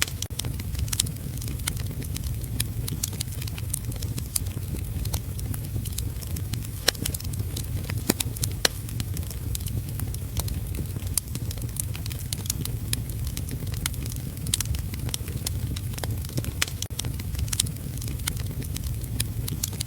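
Wood fire crackling in a fireplace, with frequent sharp pops at irregular intervals, over a steady low rumble of heavy rain.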